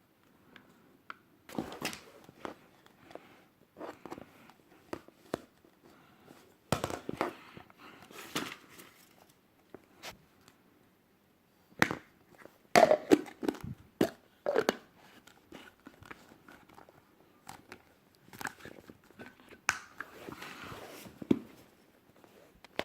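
Small purchased items and their packaging being handled: crinkling and tearing of wrapping, with sharp clicks and light knocks as things are picked up and put down, in irregular bursts.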